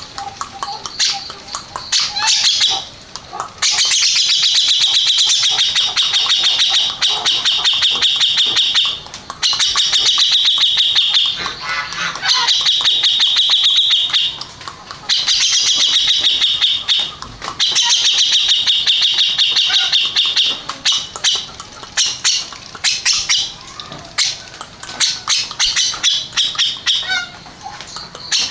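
Cucak jenggot (grey-cheeked bulbul) singing in loud, rapid rattling trills, each phrase lasting two to three seconds with short breaks between them.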